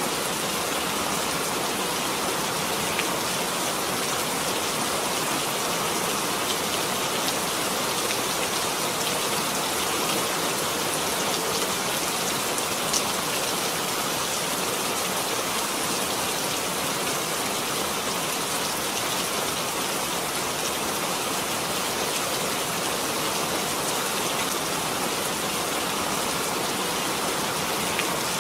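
Steady, dense rainfall: an even hiss of heavy rain with a few individual drops ticking now and then.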